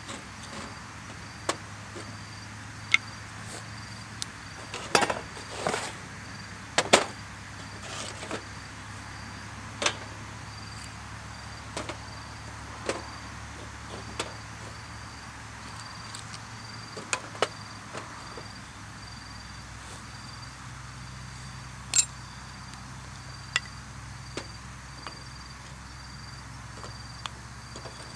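Irregular sharp clicks and knocks, over a cricket or similar insect chirping in an even pulsing rhythm and a low steady hum.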